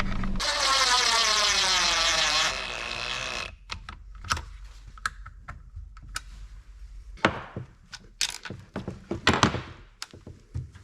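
A loud whirring that falls steadily in pitch for about three seconds, then scattered clicks and knocks of chainsaw parts and hand tools being handled on the bench.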